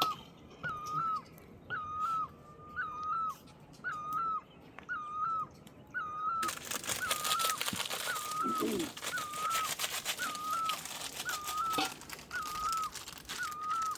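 A bird repeating the same short, hooked call very evenly, a little more than once a second. About six seconds in a steady hiss of rain comes in abruptly beneath it.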